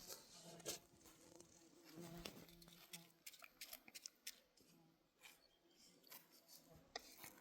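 Near silence broken by faint, irregular small clicks and rustles.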